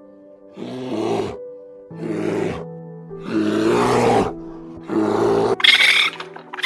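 Background music with sustained notes under an animal's repeated rough, noisy calls: four in a row, each under a second long, then a higher-pitched call near the end.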